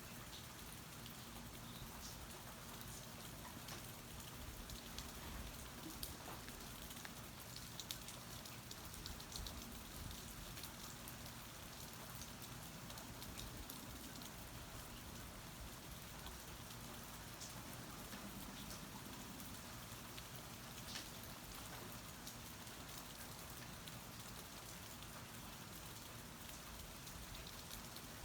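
Steady rain falling, heard from under a porch, with scattered sharper drip clicks standing out now and then.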